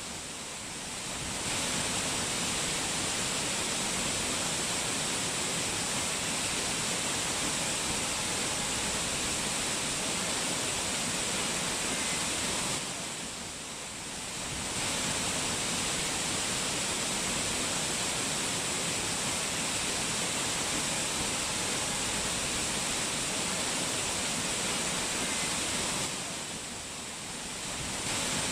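Rushing water of a mountain waterfall, a steady full hiss that dips slightly in level twice, about thirteen seconds apart.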